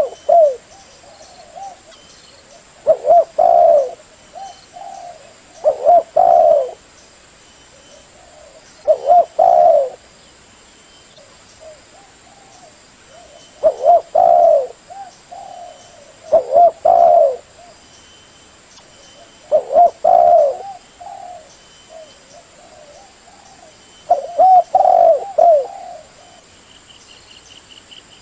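Spotted dove (Spilopelia chinensis) cooing: short phrases of two to four coos, repeated about every three seconds.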